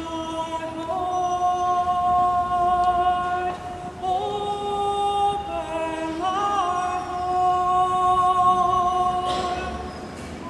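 A woman singing an unaccompanied melody, a slow line of long held notes, demonstrating one part of a chant for listeners to learn, with a breath near the end.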